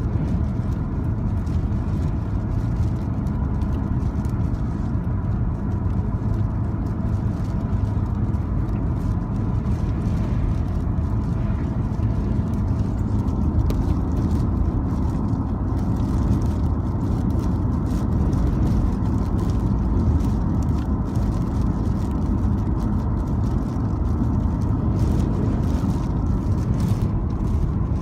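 Car driving at steady speed: a continuous low rumble of engine and tyre road noise, with a faint steady whine.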